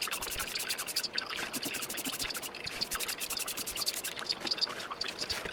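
Olympia Splendid 33 manual typewriter being typed on: a fast, steady run of key and typebar clicks, about ten a second.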